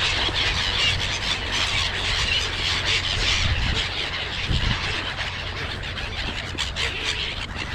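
A flock of small birds chirping and twittering continuously, many high calls overlapping, over a low rumble of wind on the microphone.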